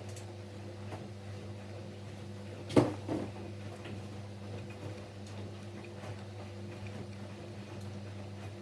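Siemens Siwamat Plus 574 front-loading washing machine during its fabric-softener rinse: the drum motor hums steadily as the drum turns. There is one loud thump a little under three seconds in, then a smaller one just after.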